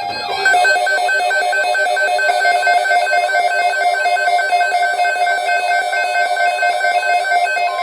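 Electronic alert tone: a rapid, evenly pulsing beep, about eight pulses a second, that starts about half a second in and keeps going steadily. It is the kind of alarm that announces a new weather bulletin.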